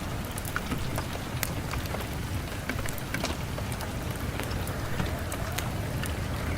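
Steady rain with a low rumble, dotted with frequent sharp, irregular crackles and pops from a wood fire.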